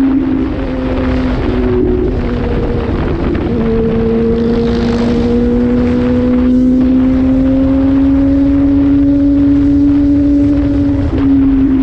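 Honda Hornet motorcycle engine running under way at a steady cruising speed, its pitch climbing slowly for several seconds and then dropping near the end, over a low wind rumble on the microphone.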